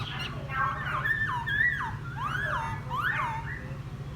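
A wild-caught laughingthrush singing its whistled song: clear notes that glide up and down in several looping phrases. A steady low hum runs underneath.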